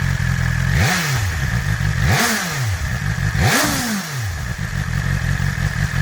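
2021 BMW S1000R's inline-four through its Akrapovic exhaust, idling and then revved with three quick throttle blips, each rising and falling back to idle, about a second and a half apart.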